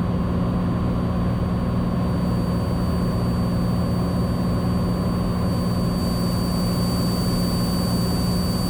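Cessna 182 Skylane's piston engine and propeller in flight, a steady unbroken cabin drone with a strong low hum.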